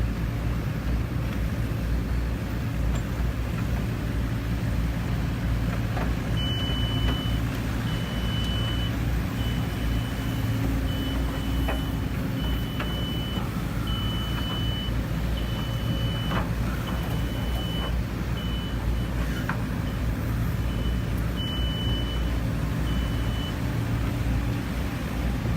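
Heavy construction machine's engine running steadily. From about six seconds in, a reversing alarm beeps at an even pace of about once a second, stopping a couple of seconds before the end.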